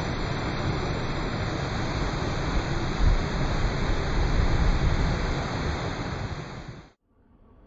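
Athirappilly Falls, a large waterfall: a loud, steady rush of falling water with a heavy low rumble. It cuts off abruptly about seven seconds in.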